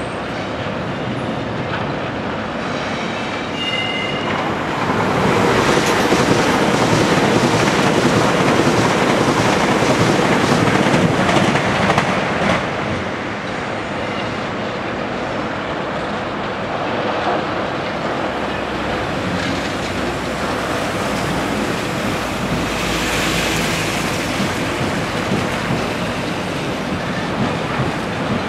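Trains rolling through a busy rail junction, freight wagons clattering over the track joints and points, with a short wheel squeal about four seconds in. The noise is loudest for several seconds a little way in as a train passes close by.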